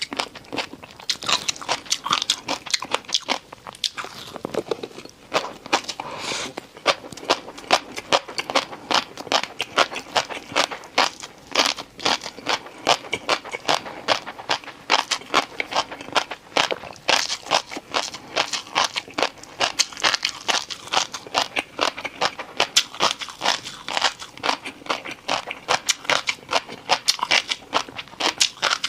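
A person biting and chewing crunchy food close to the microphone: rapid, dense crunching that goes on without a break.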